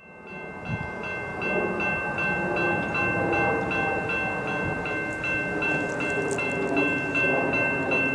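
A railroad bell ringing steadily, almost three strikes a second, over the rumble of a Norfolk Southern freight train.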